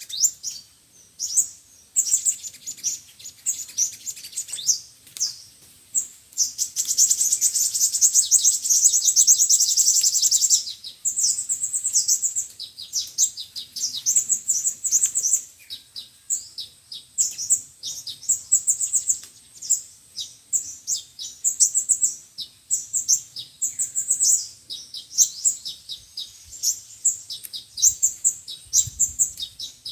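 Sunbirds singing: rapid, high-pitched chirps and twitters, with a fast continuous trill from about seven to eleven seconds in. A lure call recording used to draw sunbirds to a trap.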